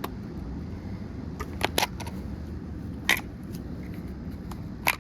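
A few sharp clicks and snaps of a microwave's metal and plastic parts being pried apart and handled: two close together near the start, a louder one midway and one near the end, over a steady low rumble.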